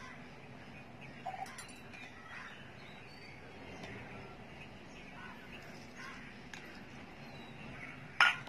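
Quiet outdoor background with faint bird chirps, then one loud, harsh bird call near the end.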